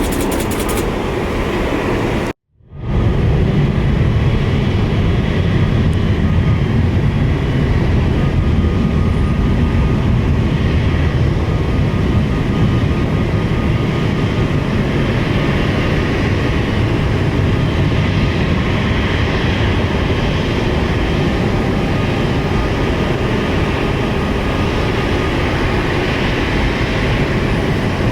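Jet airliner engines running, a steady loud rumble with a faint high whine over it. About two and a half seconds in the sound cuts out briefly, then the rumble comes back.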